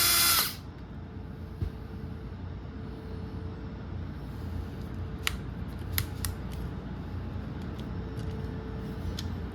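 A small electric drill drilling out a rivet stops about half a second in. After that come a few light clicks and taps of handling over a low steady hum.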